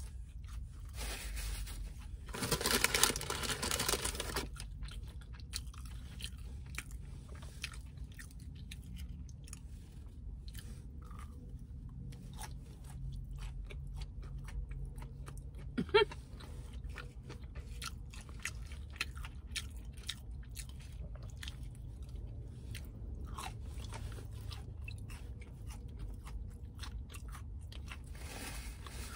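Close-up chewing of fried mozzarella sticks, wet chewing broken by many small sharp crackles. A louder stretch of biting and crunching comes about three seconds in.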